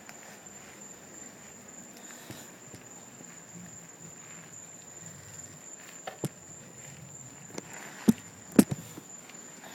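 A steady high-pitched insect trill, with a few sharp clicks and knocks, the loudest of them near the end.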